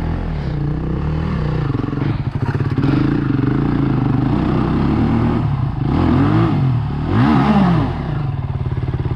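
Dirt bike engine running and being revved, with two quick throttle blips near the end in which the revs rise and fall.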